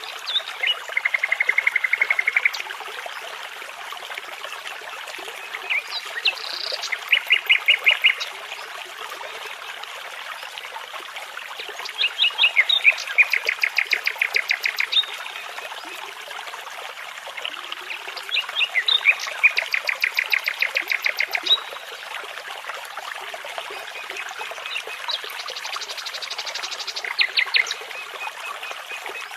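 Nightingale singing in separate phrases, each a fast run of the same note repeated, about five phrases with short pauses between them. A steady babble of brook water runs underneath.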